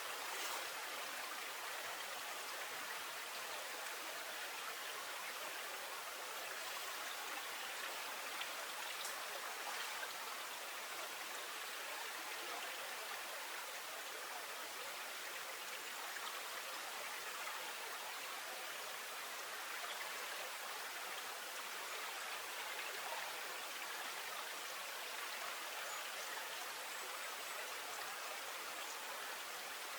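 Running river water with a steady, even rushing sound and a few faint ticks.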